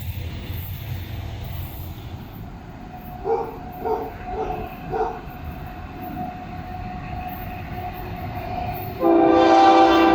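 Diesel freight locomotive's air horn: four short, fainter toots in quick succession, then a long, loud multi-note blast starting near the end.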